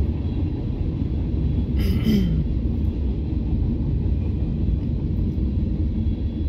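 Long freight train's cars rolling past on the rails, a steady low rumble heard from inside a car. About two seconds in, a brief higher-pitched sound with a short falling tone.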